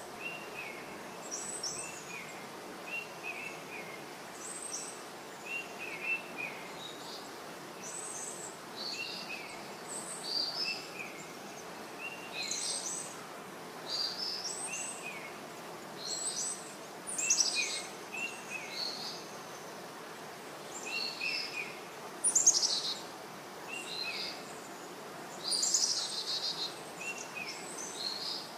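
Several birds chirping and calling over a steady background hiss: short two-note chirps repeating every second or two, with higher, louder calls now and then.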